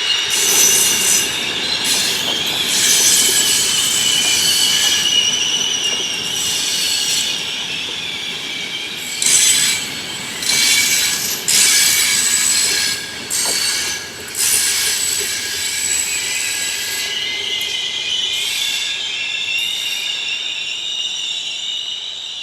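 Steel train wheels and brakes squealing on the rails as a train moves slowly through the station: several high, steady squealing tones that waver in pitch, with a run of harsh screeching bursts about halfway through.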